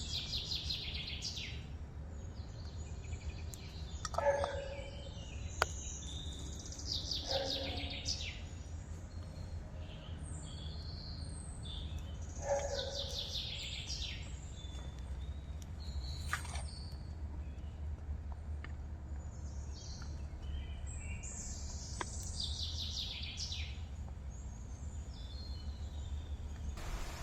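Wild birds singing: a bright falling song phrase repeats four times, every six to nine seconds, with a lower falling call several times in between. A couple of sharp clicks and a steady low rumble sit under the song.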